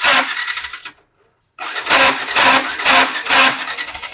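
Yamaha R15 V4's electric starter cranking its single-cylinder engine in two goes: a short burst of about a second, then, after a brief pause, a longer crank with a rhythmic pulse about twice a second. The engine turns over properly but does not catch.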